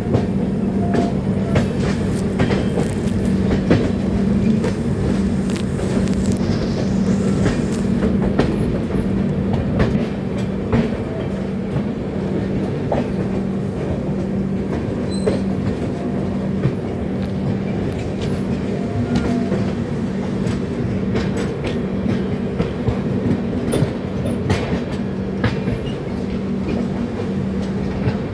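Train running along the track: a steady rumble of wheels on rails with a low hum that comes and goes in a regular beat, and the clickety-clack of wheels over rail joints.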